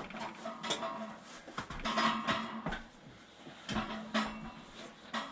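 An old tank water heater being shifted by hand: its metal body knocks and clunks several times as it is moved, with a short hum of ringing after a couple of the knocks.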